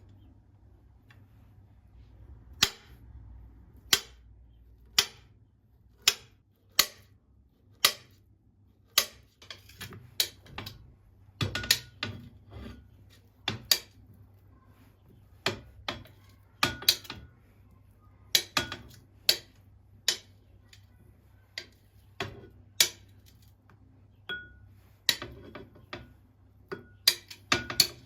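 Sharp, separate clicks and knocks of small hard objects being handled, about one a second at first, then more frequent and irregular, over a faint low hum.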